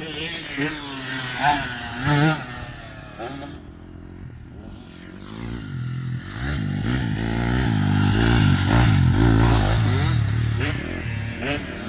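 Dirt bike engine being revved in short blips, then running and revving up, growing louder to a peak about nine seconds in before easing off.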